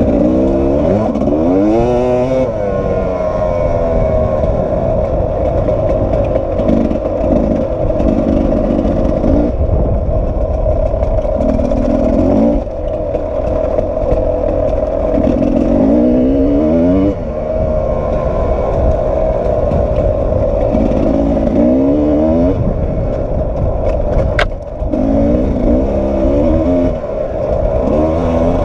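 Sherco 300 SE-R two-stroke enduro motorcycle engine, ridden hard on a dirt trail. The revs climb and drop back again and again as the throttle is opened and closed.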